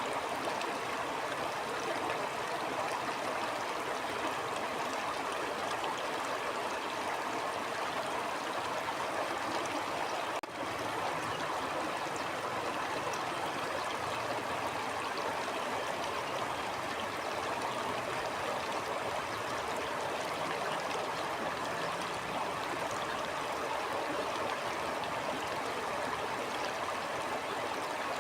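Stream flowing steadily: an even rush and babble of water, with a very short drop in level about ten seconds in.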